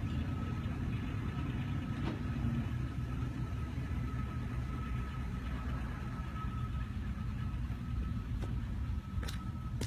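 An engine idling steadily: a low rumble with a faint high whine above it.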